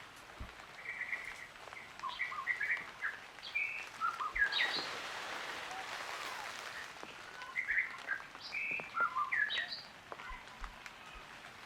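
A string of short, high chirping calls in two quick bouts, with a hissing, rustling haze in between.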